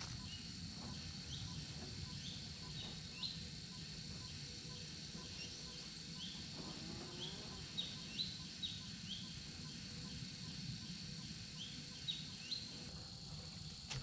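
Short, high, downward-sliding bird chirps, singly and in clusters of two or three, over a steady high insect drone and low outdoor background noise. A faint regular ticking runs about twice a second through the first half.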